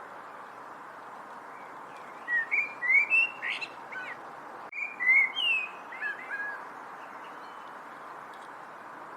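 A songbird calling in two short bursts of quick rising and falling chirps, the first about two seconds in and the second a little after the middle, over a steady background hiss.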